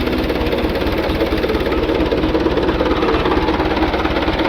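Tractor's diesel engine running steadily with a fast, even low throb.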